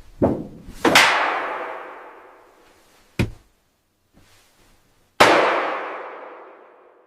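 A series of sharp metallic clangs. A loud one about a second in and another about five seconds in each ring out and fade over about two seconds, with a shorter, smaller knock between them.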